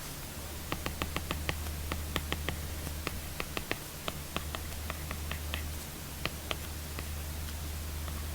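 Apple Pencil tip tapping and clicking on an iPad screen while writing, in irregular sharp taps several a second, fewer near the end, over a steady low hum.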